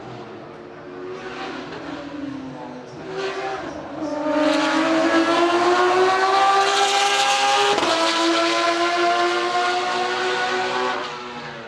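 Porsche 911 GT3 RSR race car's flat-six engine accelerating hard, its pitch climbing, with a quick upshift about eight seconds in before it climbs again. It grows loud about four seconds in and drops away near the end.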